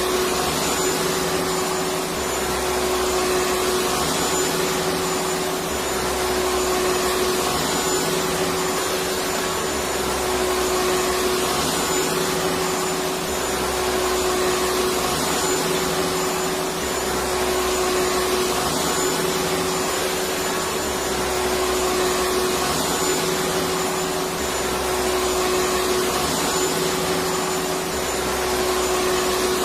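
Vacuum cleaner running continuously, a steady motor noise with a constant hum, swelling and easing slightly about every three seconds.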